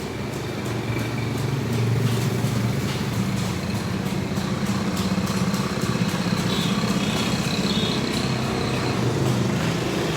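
Washing machine running with a steady low motor hum that grows a little louder over the first two seconds.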